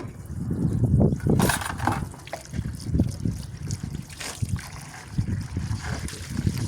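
Water trickling and sloshing as dishes are washed by hand, with a few light knocks of dishes.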